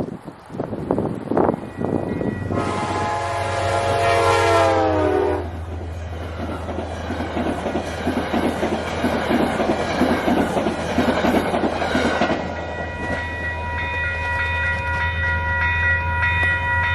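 Passing Amtrak train sounding its horn, a loud chord of several notes that drops in pitch as the locomotive goes by. It is followed by several seconds of rapid wheel clatter over the rail joints as the cars pass, with a low rumble underneath. Near the end, steady high ringing tones take over.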